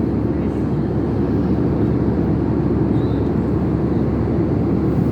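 Steady, even rumble of airliner cabin noise in flight, heavy in the low end and unchanging in level.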